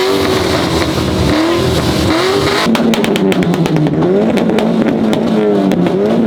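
A car engine revved in quick blips, then held at high revs on a two-step launch limiter, with a fast, even run of popping cracks from about two and a half seconds in.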